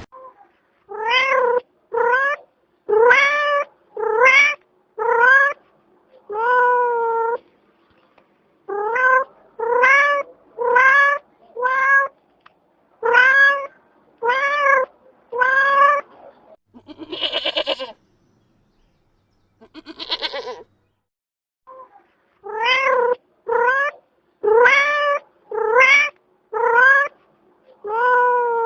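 Domestic cat meowing over and over, short meows that rise and fall in pitch, about one a second. Around the middle the meows pause for two rougher, noisier calls.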